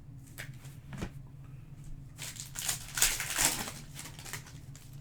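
Wrapper of a Panini Donruss soccer card pack being torn open and crinkled, loudest past the middle, after a light click about a second in.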